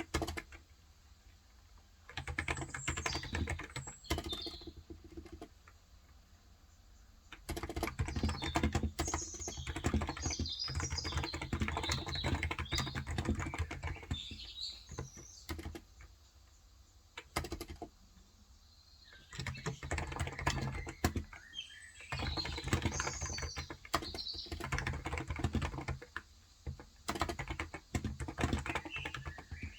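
Typing on a Cox Endeavour electrostatic capacitive tenkeyless keyboard with light 35 g keys. The keystrokes come in quick runs broken by pauses of a few seconds, with birds chirping in the background.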